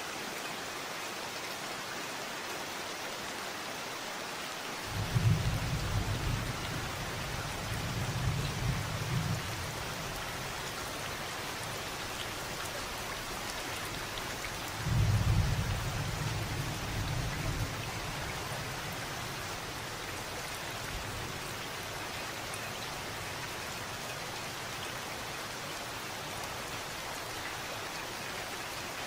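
Steady rain falling, with two low rolls of thunder. The first starts about five seconds in and the second about fifteen seconds in, each rumbling for a few seconds before fading back under the rain.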